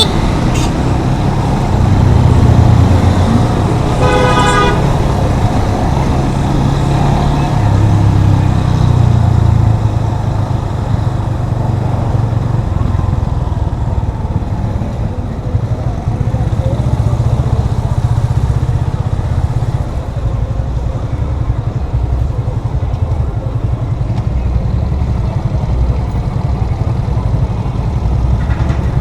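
Yamaha FZ25's single-cylinder engine running as the motorcycle rides through town traffic. A vehicle horn honks once, about four seconds in.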